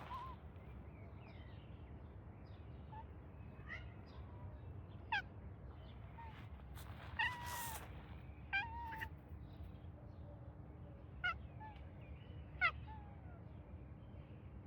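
A cat meowing: a string of short, high mews, with one longer meow about halfway through.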